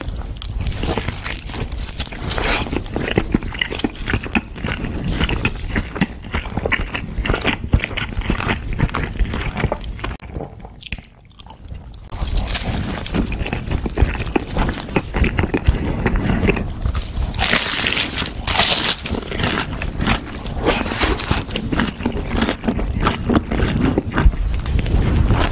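Crunching and chewing as crispy fried chicken nuggets dipped in cheese sauce are bitten and eaten, with a short lull about ten to twelve seconds in.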